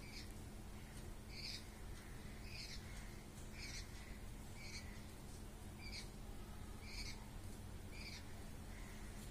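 A bird calling over and over, one short note about once a second at an even pace.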